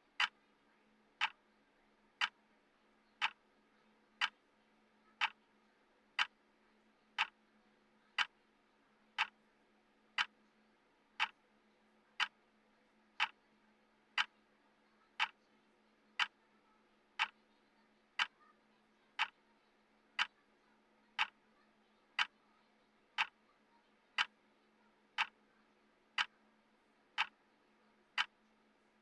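Clock tick sound of a countdown timer: a sharp tick once a second, evenly spaced.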